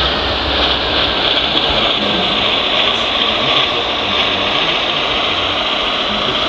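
Small electric motors and gearboxes of radio-controlled model trucks and construction machines running, with a steady high whine.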